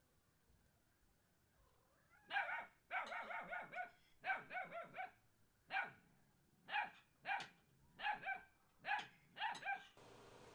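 A dog barking repeatedly in short, high-pitched barks. They start about two seconds in, some in quick runs and some single, with short pauses between.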